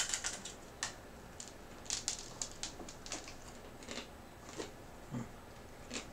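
Crunching of dry, uncooked ramen-noodle snack chips (Ppushu Ppushu) being chewed: a quick run of crisp crunches at the start, then scattered single crunches every second or so.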